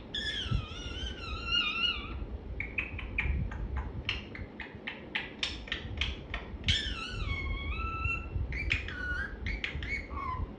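Female Indian ringneck parrot chattering in high, whistly calls that glide up and down: a squeaky parrot imitation of speech. A quick run of short clicks and chirps comes in the middle, between two longer warbling calls.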